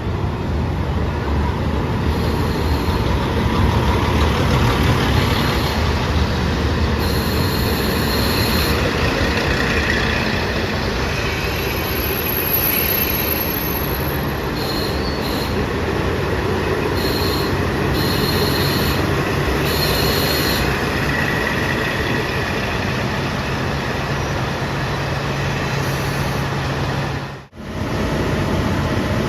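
A train rolling through the railway station, with a continuous rumble of wheels on rails and short high-pitched squeals on and off in the middle. A steady low engine hum comes in about halfway, and the sound cuts out for a moment near the end.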